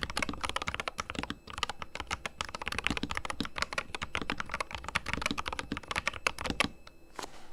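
Fast typing on a fully lubricated Corsair K100 RGB mechanical keyboard, a dense run of key presses that stops near the end, followed by one last keystroke.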